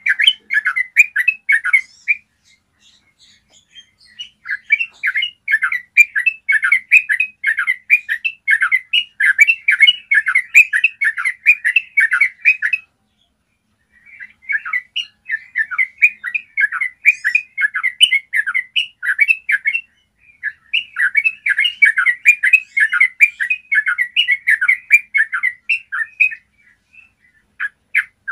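Yellow-vented bulbul singing its long rapid song (ropel): runs of quick, clear notes, broken by short pauses about two, thirteen and twenty seconds in.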